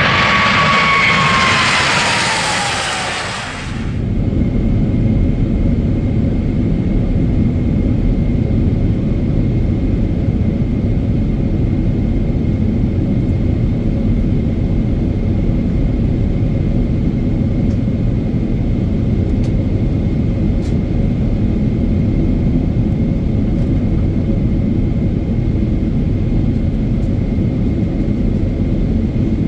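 Inside the cabin of a Boeing 777-300ER, the GE90 engines and airflow make a steady low roar with a faint constant whine. For the first few seconds a louder hiss with a whine falling in pitch is heard, then it drops away suddenly.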